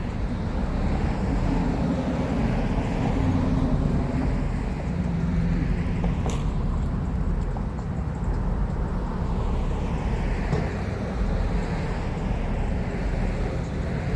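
Road traffic going by: a steady low rumble, with vehicles swelling past twice and a single sharp click about six seconds in.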